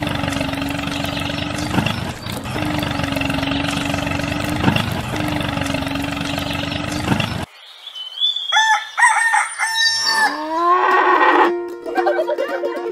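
A small motor running steadily with a low hum while the toy tractor pulls its roller, cutting off suddenly about seven seconds in. Then chicken sounds: a rooster crowing and hens clucking.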